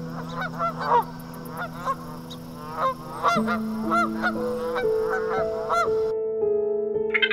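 Egyptian geese giving a run of short, harsh honking calls at an uneven pace, which stop about six seconds in.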